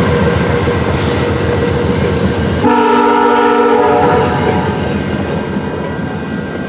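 VIA Rail diesel passenger train running past with a steady, rhythmic low rumble. About three seconds in, the locomotive's air horn sounds one chord-like blast lasting about a second and a half.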